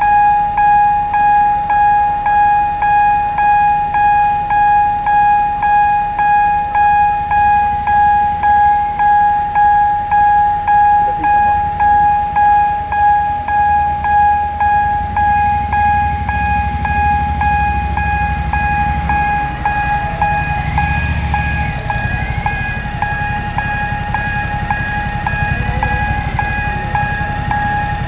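Level crossing warning bell ringing in even strokes, about three every two seconds. From about halfway through, a train's low rumble builds under it, with a high squeal that wavers in pitch.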